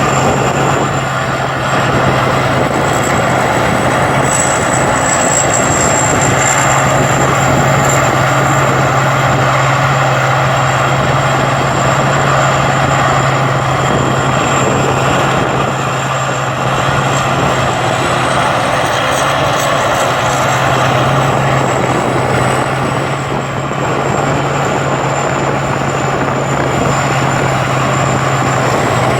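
Rice combine harvester from Thai Seng Yont running steadily while cutting rice, a continuous engine drone with a thin high whine above it.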